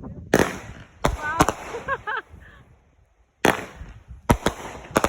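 Fireworks going off: about seven sharp bangs in two clusters, with a short pause near the middle.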